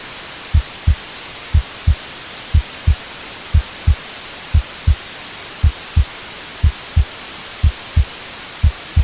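A heartbeat, low lub-dub double thumps about once a second, over a steady white-noise hiss.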